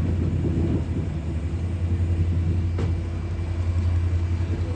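Train in motion: a steady low drone and rumble, with a single short click about three seconds in.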